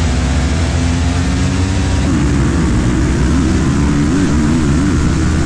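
Dirt bike engine running under a heavy low rumble of rushing air, its pitch steady at first and then rising and falling repeatedly from about two seconds in as the throttle is worked.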